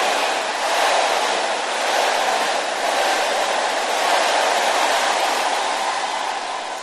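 A large congregation shouting amen together in response to a prayer declaration: a loud massed roar of many voices that swells about once a second and fades near the end.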